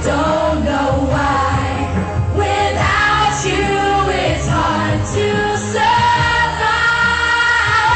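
Live dance-pop performance: a female singer's voice, with long held notes, over a loud electronic backing track with a steady bass.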